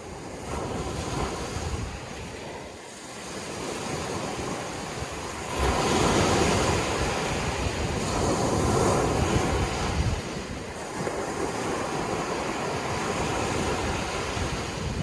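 Sea waves breaking and washing in, swelling loudly about five seconds in and easing off after about ten seconds, with wind buffeting the microphone.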